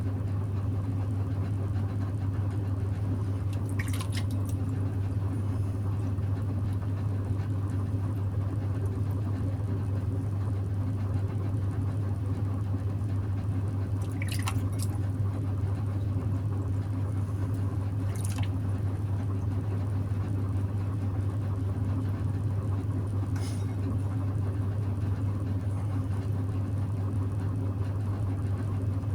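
Electric potter's wheel motor humming steadily while wet clay is worked on the turning wheel, with a few faint, short squeaks from hands on the wet clay.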